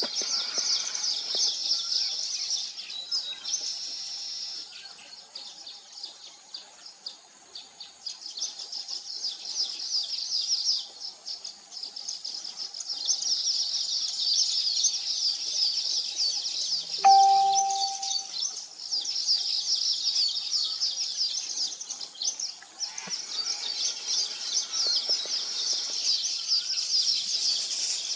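A colony of weaver birds chattering and buzzing continuously in rapid high notes, thinning out for several seconds early on before building back up. A little past halfway, one short clear lower tone sounds once.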